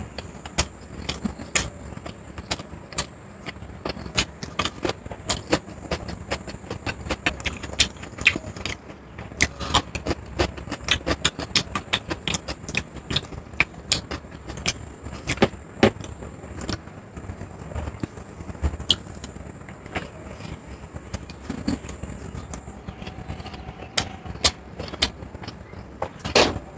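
Close-up eating sounds: chewing and mouth smacks as a meal is eaten, making irregular sharp clicks several times a second, with a louder knock near the end.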